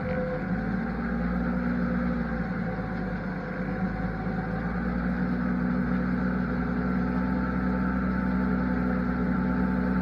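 Large diesel farm-machinery engine running steadily under harvest work, with a low rumble beneath a steady hum; the note firms up slightly about halfway through.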